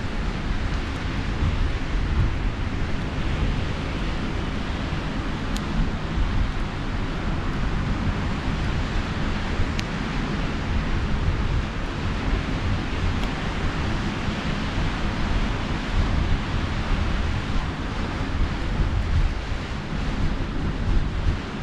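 Steady surf and wind with low rumbling wind buffeting on the microphone, and two faint campfire pops, one about five seconds in and one about ten seconds in.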